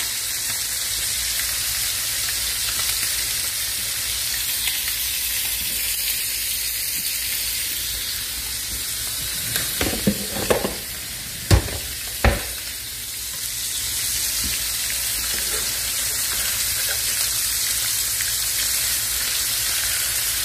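Okra and fish frying in hot oil in a cast-iron wok and a pan, a steady sizzle. About ten seconds in, the sizzle dips under a few knocks and two sharp clacks from a kitchen drawer being handled.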